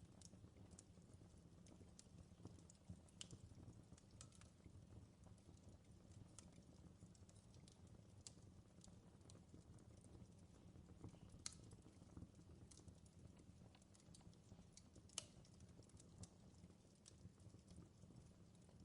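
Faint fireplace wood fire crackling: scattered sharp pops and clicks over a low steady rumble, with a couple of louder pops in the second half.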